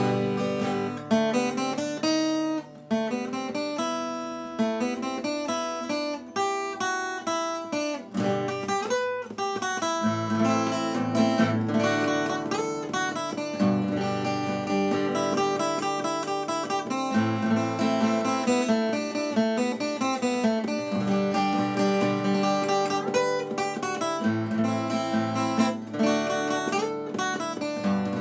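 Acoustic guitar playing an instrumental forró tune, a plucked melody over strummed chords.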